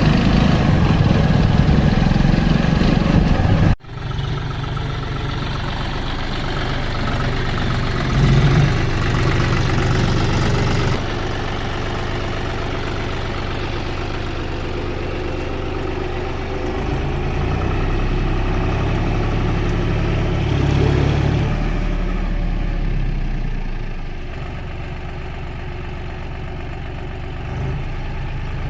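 John Deere tractor engine running, its low note shifting a few times, with a sudden break about four seconds in where the sound cuts and comes back.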